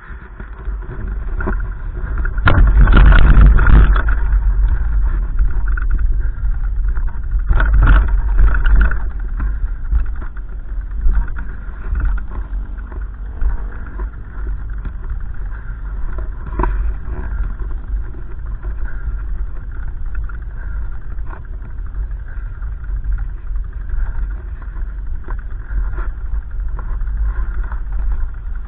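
Gusty wind buffeting the microphone: a loud, uneven low rumble, with the strongest gusts about three seconds in and again around eight seconds.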